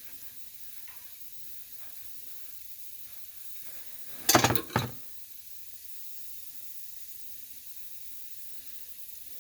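Steady faint hiss of compressed air escaping from a leaking air compressor line. About four seconds in comes a brief clatter of two or three sharp knocks.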